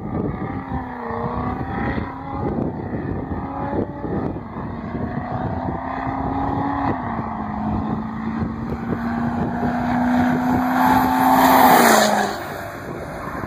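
Duramax diesel pickup driving past: the engine note holds mostly steady with a step down in pitch about seven seconds in, grows louder to a peak near the end, then falls away as the truck passes.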